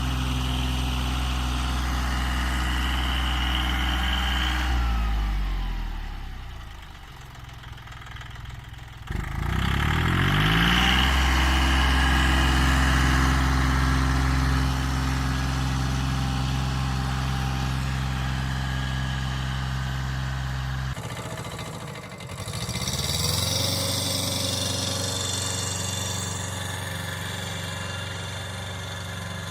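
A mini tractor's engine running steadily. About five seconds in it slows and drops in pitch, then revs back up near the nine-second mark. Around two-thirds of the way through the sound changes abruptly, dips and rises again, and then settles into a steady run.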